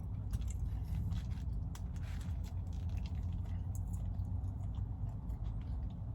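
A person chewing and biting into a McDonald's burger close to the microphone, with wet mouth clicks and crackles, over a steady low hum.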